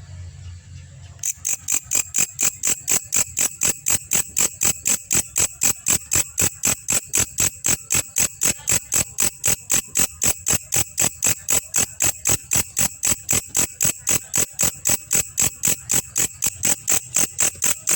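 Belalang kecek calling: a steady, high-pitched chirping of sharp pulses at about three a second, starting about a second in after a faint low hum.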